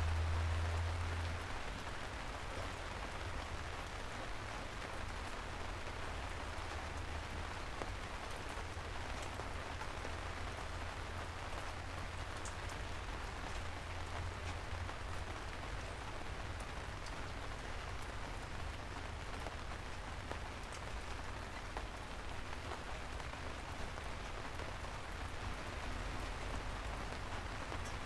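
Steady rain falling, an even hiss with scattered drop ticks. A low rumble underneath swells and fades, strongest at the start.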